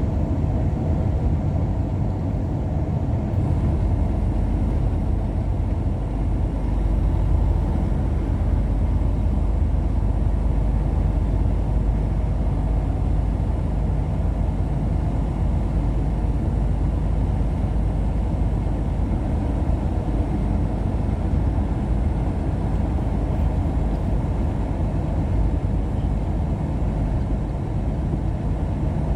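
Steady low rumble of a vehicle driving along, engine and road noise running evenly without change.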